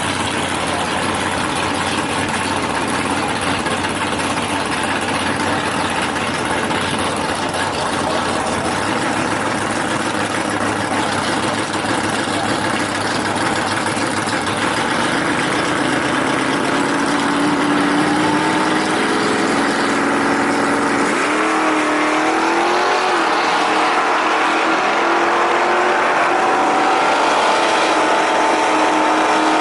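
Drag-racing engines running loudly at the strip. About two-thirds of the way in, one engine revs up sharply, and its pitch stays high and keeps climbing slowly as it accelerates.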